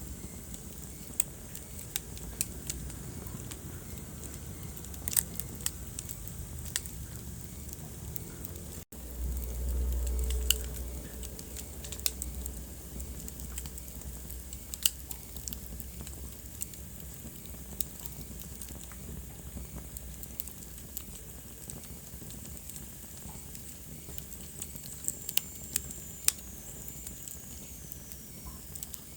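Wood fire burning in a fireplace, crackling with scattered sharp pops over a low steady rumble. About nine seconds in the sound drops out for an instant, then the low rumble of the flames swells louder for a couple of seconds.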